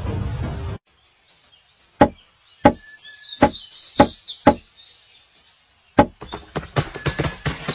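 Pileated woodpecker hammering on wood with heavy single blows, about two a second, in a run of five and then a loose, quicker cluster near the end. A steady noise cuts off abruptly in the first second, and faint bird chirps sound between the blows.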